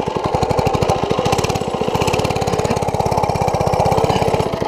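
80cc mini bike's single-cylinder engine running steadily under load as the bike bogs in mud, dropping away abruptly at the very end.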